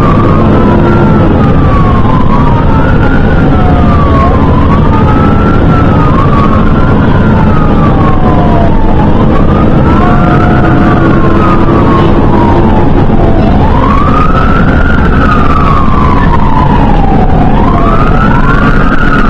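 Fire engine's siren sweeping up quickly and falling off more slowly, about every two seconds, over the steady drone of the truck's engine. Now and then a second siren overlaps it.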